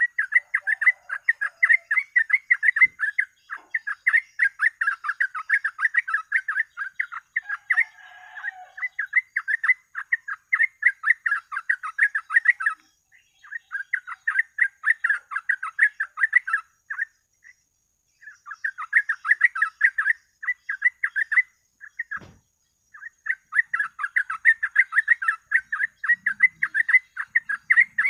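Yellow-vented bulbul (trucuk) singing in long runs of rapid chattering notes, breaking off briefly a few times.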